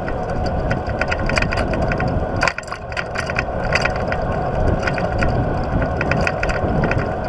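Wind rushing over the microphone of a moving bicycle, with runs of quick clicks from the bicycle's freewheel hub ratcheting as it coasts.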